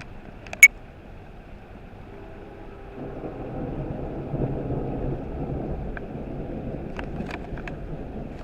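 Heavy rain with a low rumble of thunder that swells about three seconds in and rolls on; a single sharp click sounds just under a second in, and a few small ticks come near the end.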